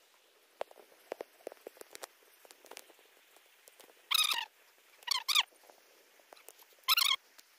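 A bird calling three times in short squeaky, warbling notes, the middle call doubled, over faint scattered ticks.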